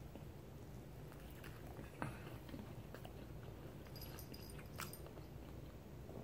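A man faintly chewing a mouthful of microwaved corn dog, with a few soft clicks.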